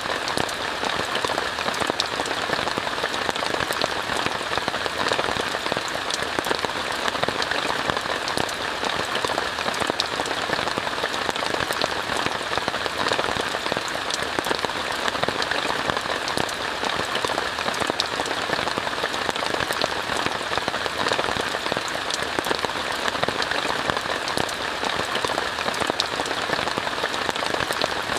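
Steady rain falling on a tent, an even hiss with many sharp individual drop hits.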